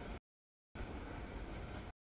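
Freight cars rolling past: a steady noise of wheels on rail, heard in two stretches that cut off abruptly, with the audio dropping out to dead silence in between.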